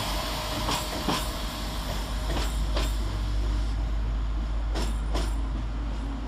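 Passenger train moving slowly along the platform, its wheels clicking in pairs over a rail joint three times, the pairs coming farther apart each time, over a steady low engine rumble.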